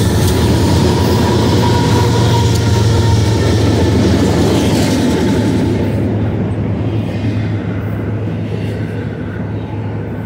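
Freight train passing close by: the trailing GE diesel locomotives give a loud, steady low engine drone with a thin steady high tone over it. From about six seconds in the sound grows quieter and loses its hiss as the double-stack container well cars roll past on the rails.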